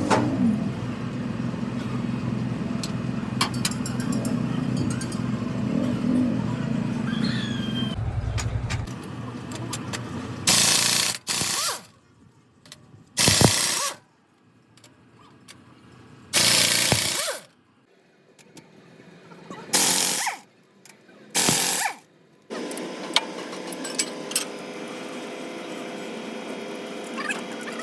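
A motor running with a steady low hum that stops about eight seconds in. Then five short, loud bursts of hissing noise follow, each lasting under a second.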